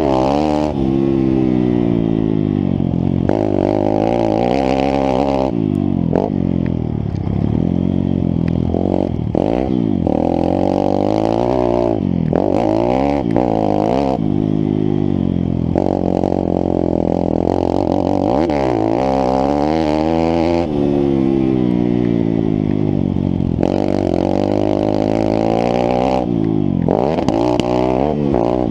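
A YCF SP3 pit bike's single-cylinder four-stroke engine under hard riding. The pitch climbs as the throttle opens, then drops back, again and again every couple of seconds through shifts and corners.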